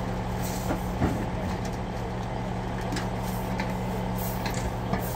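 Heavy engine running steadily with a low hum, with a sharp clank about a second in and a few lighter clicks.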